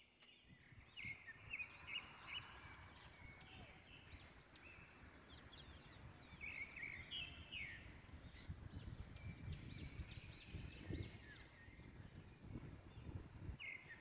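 Faint chirping of small birds: many short high calls, some in quick runs of several, over a low, uneven rumble.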